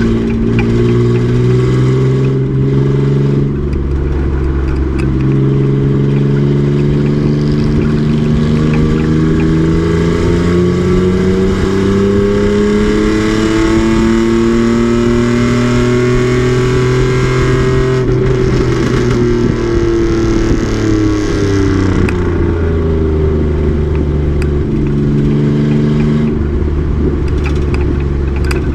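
A race truck's engine pulling hard, its pitch climbing steadily for about fourteen seconds, then dropping away as the driver lifts or slows.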